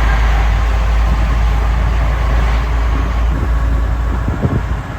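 Inside a semi-truck's cab on the highway: a deep, steady engine and road rumble with road noise over it, easing off about four seconds in.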